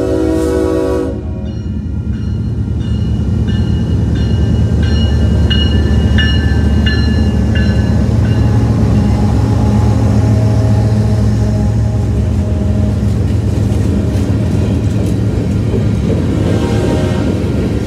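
BNSF diesel freight locomotives passing close by: the train horn's blast cuts off about a second in, then a bell rings about twice a second for several seconds under the locomotives' loud engine rumble. The covered hopper cars follow, their wheels rolling steadily over the rails.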